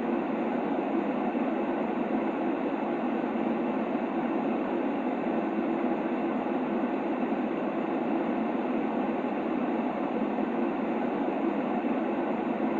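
Steady white-noise sleep sound, a constant, even hiss centred in the low middle, with no deep bass and no bright top.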